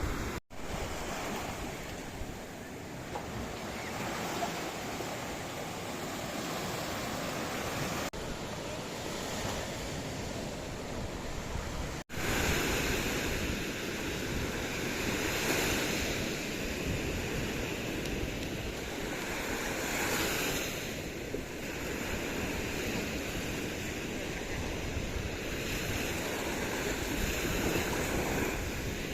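Sea waves washing onto the shore in a steady rush of surf that swells and eases, with wind on the microphone. The sound cuts out for an instant twice, near the start and about twelve seconds in.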